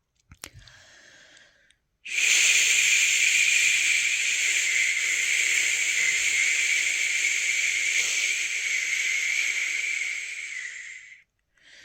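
A person's long, steady "shhh" shushing sound, starting about two seconds in and held for about nine seconds, made to soothe a newborn to sleep.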